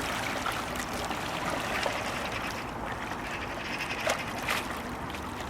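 Kayak paddle working the water: steady trickling and dripping, with a few short sharp splashes of the blade about four seconds in.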